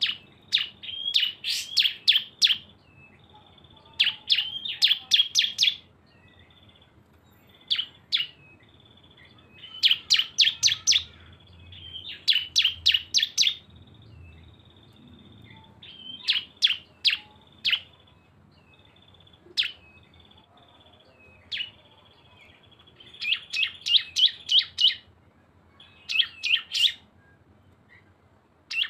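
Bar-winged prinias (ciblek) singing the 'bren' song: quick bursts of sharp, high chirps, several a second, repeated every couple of seconds, with a thin, steady high trill running between the bursts.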